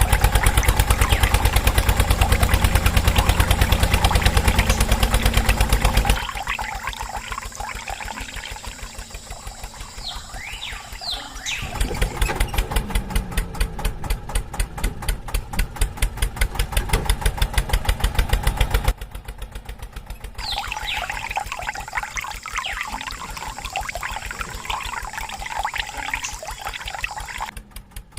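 A small motor running with a fast, even pulse while water pours. The motor is strong for the first six seconds, fades, then comes back strongly from about twelve to nineteen seconds in.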